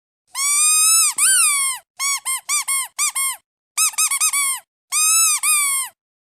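Duck squeeze toy squeaked in quick groups: two long squeaks, then four short ones, then a rapid flurry, then one long squeak. Each squeak rises and falls in pitch.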